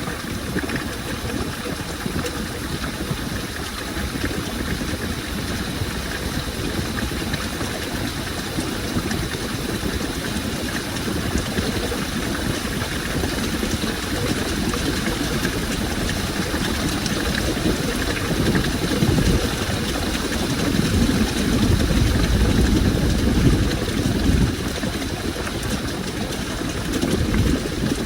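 Washing machine running a load of laundry: the motor hums while water and clothes slosh in the turning drum, in low surges that grow stronger during the second half.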